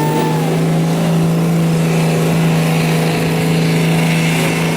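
Diesel pickup truck engine running hard at a steady, held pitch while pulling a weight sled down the track.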